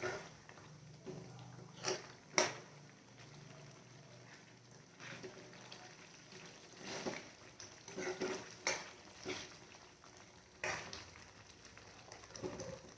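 A spoon clinking and scraping against a cooking pan of thick chicken gravy, in about a dozen scattered short knocks.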